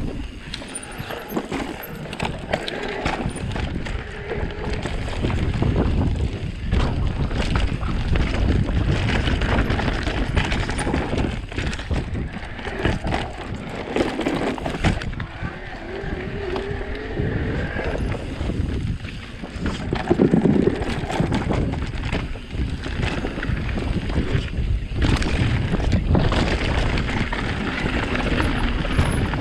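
E-bike riding noise: wind buffeting the microphone and tyres rumbling and rattling over rough ground, with brief pitched whines now and then.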